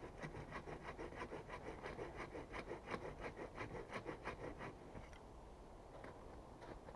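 Wood being worked with a hand tool in quick back-and-forth scraping strokes, about five a second, which stop a little under five seconds in.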